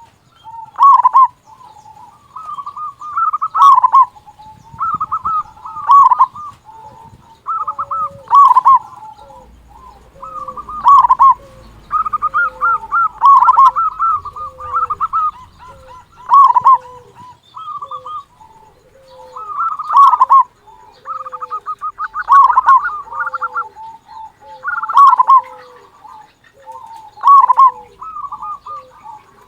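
Zebra dove (perkutut) cooing over and over, loud and clear, one phrase about every two and a half seconds. Each phrase is a quick cluster of bright notes, with short lower notes in between.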